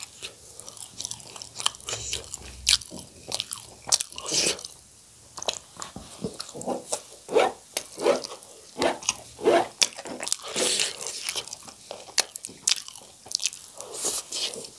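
Close-miked chewing and mouth sounds of a person eating spicy noodles with chopsticks: irregular sharp clicks and short wet smacks.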